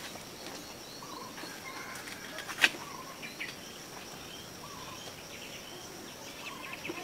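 Birds chirping in short, scattered calls over a steady high thin whine, with one sharp click about two and a half seconds in.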